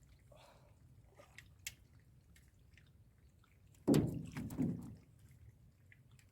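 Water splashing: a few faint drips and small knocks, then a loud splash about four seconds in that lasts about a second.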